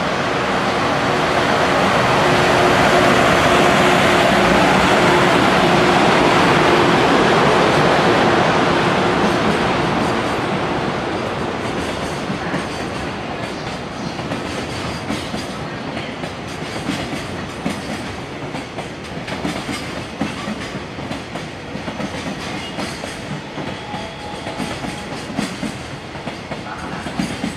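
JR Freight EH500 dual-voltage electric locomotive passing through with a container freight train. The passing grows to its loudest in the first several seconds, then eases off as the container flat wagons roll by with a rhythmic clickety-clack of wheels over rail joints.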